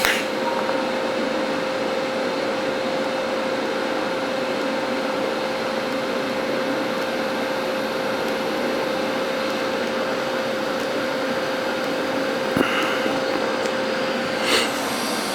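TIG welding arc on stainless steel running steadily: an even hiss with a steady hum, stopping about a second before the end.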